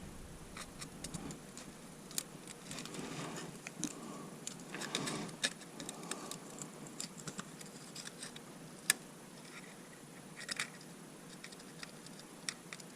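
Faint handling noise with scattered small metallic clicks and light scraping, as hands grope around under the truck for a dropped E-clip.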